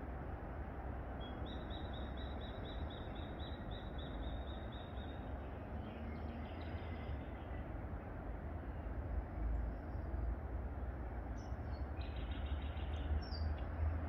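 A small bird sings a run of quick, evenly repeated high chirps for about four seconds, and sings again near the end, over a steady low background rumble.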